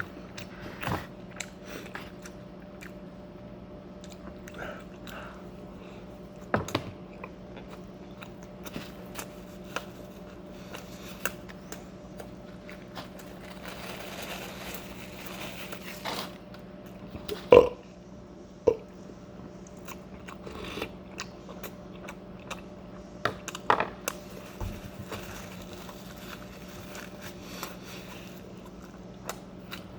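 Close-miked chewing and mouth noises of a person eating, with scattered short smacks and clicks over a steady low hum; the loudest sudden mouth noise comes a little past halfway.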